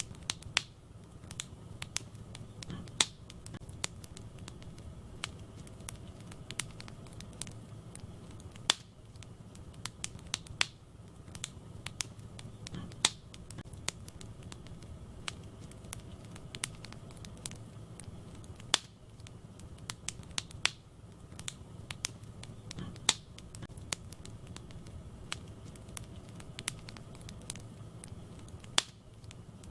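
Wood fire burning in a fireplace: a steady low rumble of flames with irregular sharp crackles and pops, several a second, a few much louder than the rest.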